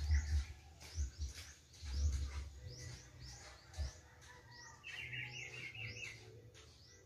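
Small birds chirping over and over, about two short high calls a second, with a brief buzzy trill about five seconds in. A low rumble, loudest in the first half, sits under the calls.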